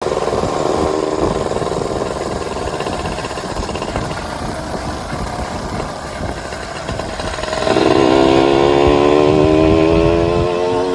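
Kawasaki Ninja 150 RR's single-cylinder two-stroke engine idling, then revved sharply about eight seconds in and held at higher revs for a couple of seconds before easing off near the end.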